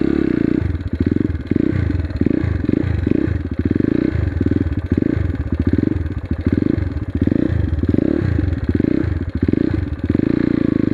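Crossfire RM 250 dirt bike's single-cylinder engine running as it is ridden at low speed, the note swelling and dipping about twice a second with the throttle.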